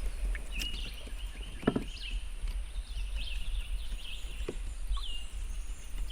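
Birds chirping repeatedly in short calls, with a few soft knocks and a steady low rumble underneath.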